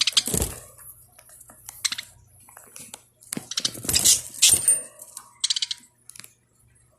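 Pet parakeets moving about their cage, setting off bursts of clicking and clattering with metallic jingling from toys and cage parts, the loudest run about four seconds in.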